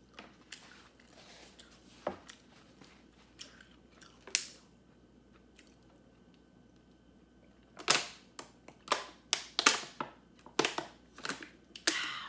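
Close-miked eating: a few soft chewing clicks, then from about eight seconds in a quick run of loud, sharp crunches as crunchy food is bitten and chewed.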